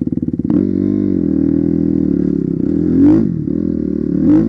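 Dirt bike engine ticking over, then taking throttle about half a second in and running with changing revs, rising in pitch twice: near three seconds and near the end.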